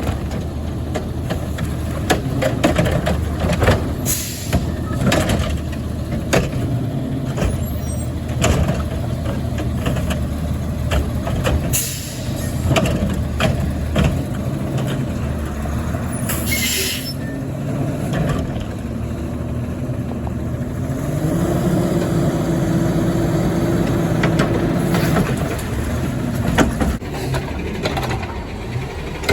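Garbage truck's diesel engine running, with short air-brake hisses and sharp knocks and clanks. About twenty seconds in, the engine's pitch steps up and holds for a few seconds before dropping back.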